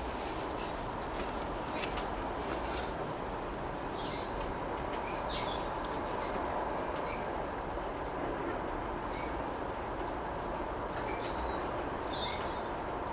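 A small bird chirping: short, high-pitched calls repeated at irregular intervals of a second or so, over a steady background hiss with a faint hum.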